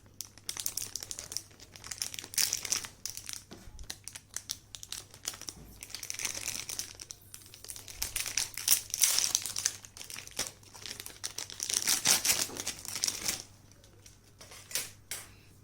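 Crinkly packaging being handled and unwrapped in repeated bursts of crinkling, dying down about two seconds before the end.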